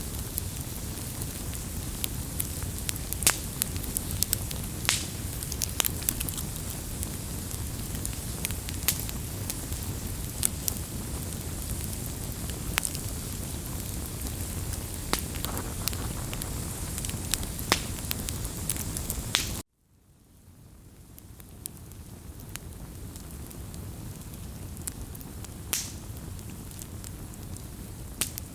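Wood fire crackling, with frequent sharp pops over a steady hiss. About twenty seconds in, the sound cuts off abruptly, then fades back in quieter with fewer pops.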